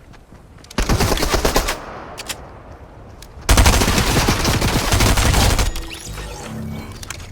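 Two bursts of rapid automatic gunfire: a short burst about a second in, then a longer one of about two seconds just before the middle.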